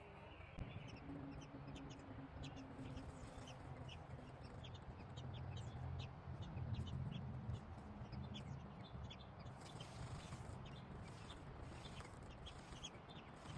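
Birds giving many short, high, thin chirps, coming faster in the second half, over a steady low rumble that swells about halfway through.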